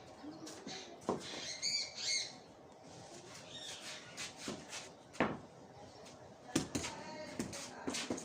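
A bird gives a quick run of short, high chirps about two seconds in, with scattered sharp clicks and knocks through the rest.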